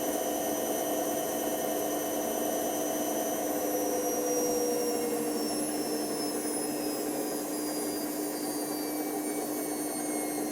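Hoover Nextra HNWL7146 washer dryer running at speed: a high motor whine slowly falling in pitch over a steady hum and rush.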